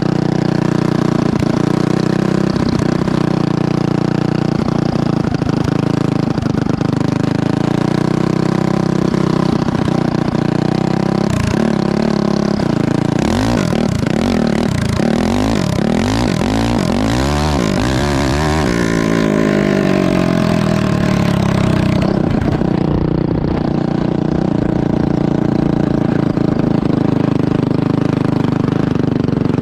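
Honda CRF450 single-cylinder four-stroke motocross engine in a go-kart, running loud throughout, its pitch rising and falling repeatedly around the middle as it is revved and driven hard.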